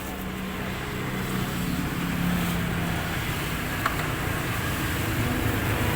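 Steady low motor hum over a background noise haze, with a single short click about four seconds in.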